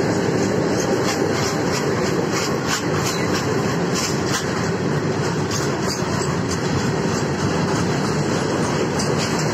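Loaded BOXNR open freight wagons rolling past: a steady rumble of steel wheels on the rails, with irregular clicks as the wheels cross rail joints.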